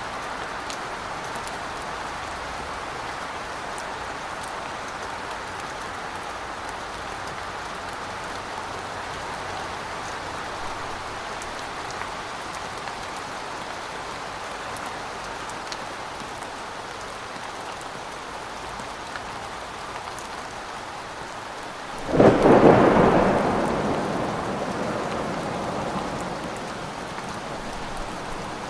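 Thunderstorm: steady rain falling, then a sudden loud thunderclap about three quarters of the way through that rumbles and fades away over several seconds.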